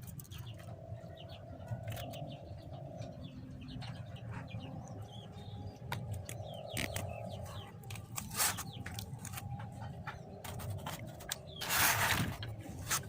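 Small bird giving short, faint chirps, with scattered clicks and handling rustle and a louder rustle near the end.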